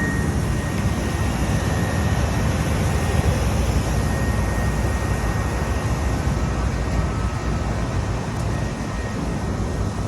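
Rooftop HVAC units running: a steady rumble with a faint, constant high whine.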